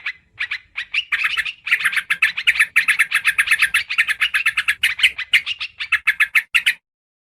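Yellow-vented bulbul (trucukan) lure-call recording: fast, dense chattering runs of short bright notes that break off shortly before the end.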